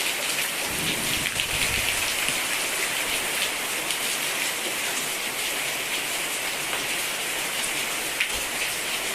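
Heavy rain falling steadily, an even hiss scattered with the ticks of single drops striking close by.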